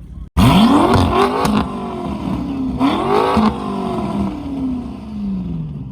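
A high-performance car engine accelerating hard at full throttle, starting abruptly, its pitch climbing and dropping at gear changes, loudest in two bursts. The engine note then falls steadily as the car pulls away.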